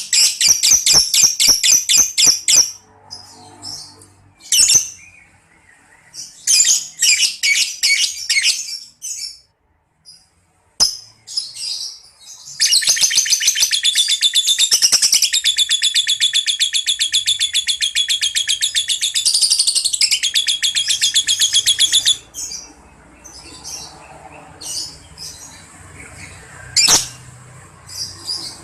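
Young lovebird singing its ngekek: rapid high chattering trills in short runs, then one long unbroken chatter of about ten seconds starting about twelve seconds in, followed by scattered faint chirps and one sharp call near the end.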